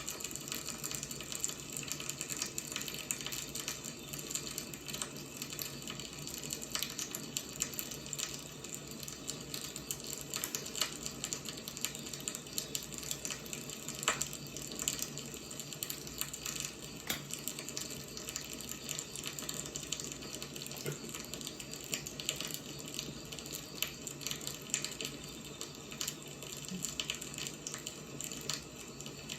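Wood fire burning: a steady hiss with frequent small crackles and pops, one sharper pop about halfway through.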